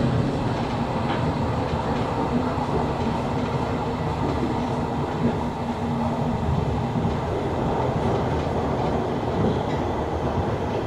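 Running noise heard inside a Berlin S-Bahn electric train carriage under way: a steady rumble of wheels on rail, with a faint low hum.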